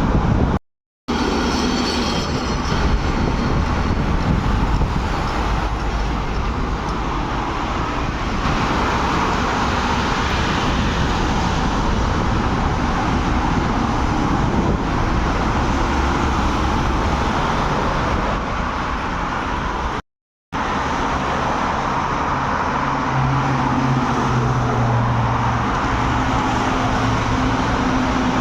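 Road vehicle noise: a steady rumble of engines and tyres on a road, typical of heavy trucks driving. It breaks off into silence twice, briefly: once about a second in and again about two-thirds of the way through.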